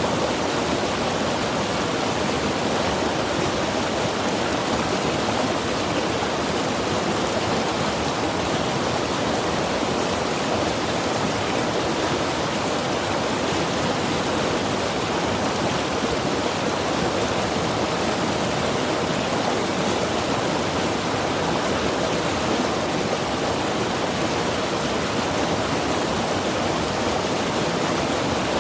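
Mountain river rushing over rocks: a steady, unbroken wash of water noise.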